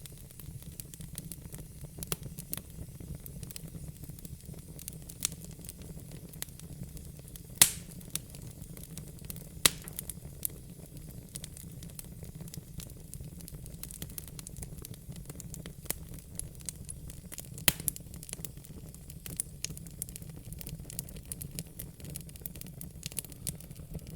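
Wood fire in a fire pit crackling: irregular sharp pops and snaps, a few much louder ones about eight, ten and eighteen seconds in, over a steady low rumble.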